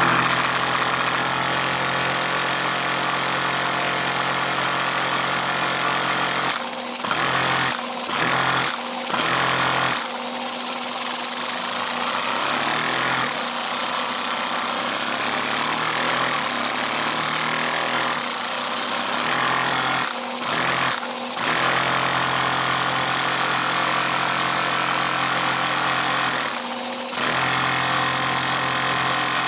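Lego vacuum engine running at speed, a steady fast mechanical clatter of plastic parts that dips briefly a few times. It is running smoothly after its weak piston-to-connecting-rod joint was refitted.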